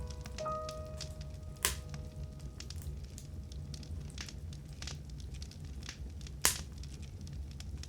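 Wood fire burning in a fireplace: a steady low rumble with irregular crackles and two sharp, louder pops from the burning logs, the first about a second and a half in, the second near the end. A soft piano note sounds and dies away in the first second or so.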